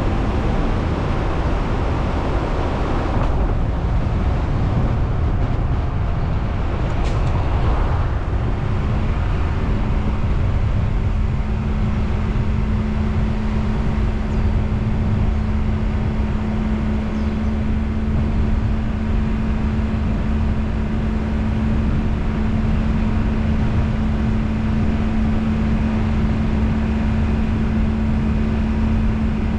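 A car driving at a steady pace, its engine and tyre-on-road noise running evenly. A steady low hum joins about nine seconds in.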